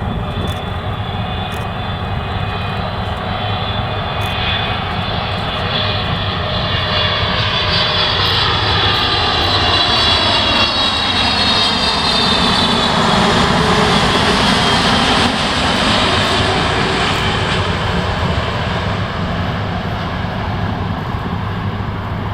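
Jet airliner on landing approach passing low overhead: a steady engine whine and rumble that grows louder, peaks about two-thirds of the way through, then fades, its whine dropping in pitch as it goes by.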